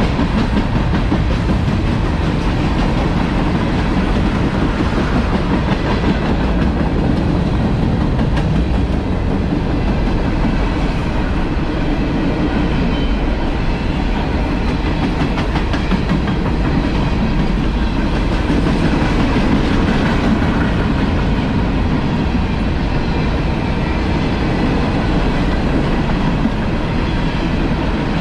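Freight train cars rolling steadily past, with continuous wheel-on-rail rumble and clickety-clack from the wheels over rail joints.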